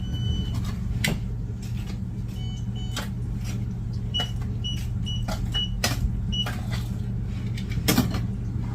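About nine short, high electronic beeps come in small groups over a steady low hum, with several sharp knocks in between, the loudest near the end.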